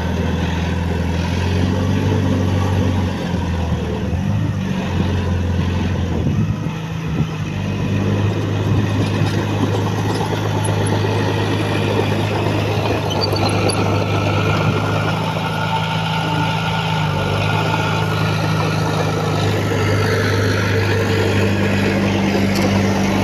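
Diesel engine of heavy earthmoving machinery running steadily, its note shifting and easing off briefly a few seconds in before settling again.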